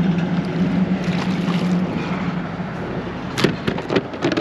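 A steady low motor hum that stops about two seconds in, then a few sharp knocks and clatters about three and a half seconds in and again near the end.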